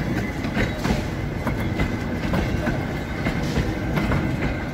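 Wooden passenger coaches of a tourist train rolling past on the track: wheels rumbling steadily, with irregular clicks and clacks from the wheels on the rails.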